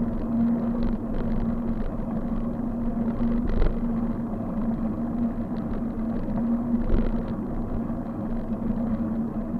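Steady noise from a bike being ridden along a road: a constant low hum over a rumbling haze, with two brief thumps from bumps, one about a third of the way in and one about three-quarters through.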